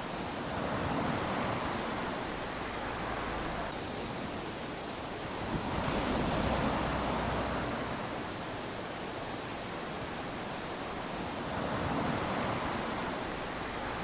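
Small waves lapping onto a sandy shore, three gentle surges of wash about every five seconds over a steady hiss of surf.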